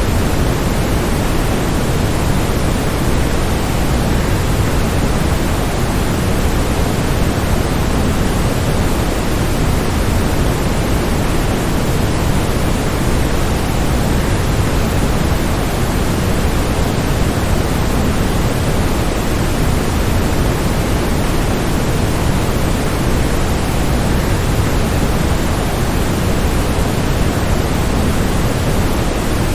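Steady, unbroken rushing of a waterfall, a dense even hiss that is heavier in the low end and never changes in level.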